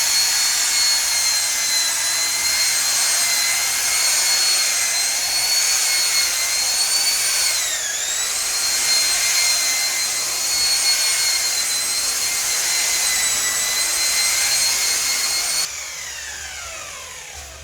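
Electric paint polisher running on a truck's painted panel, a steady high motor whine with a brief dip in pitch about halfway through. Near the end it is switched off and the whine falls away as the motor spins down.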